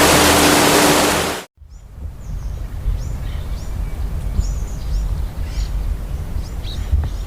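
A loud, even rushing noise that cuts off suddenly about a second and a half in, then birds chirping on and off over a low steady rumble.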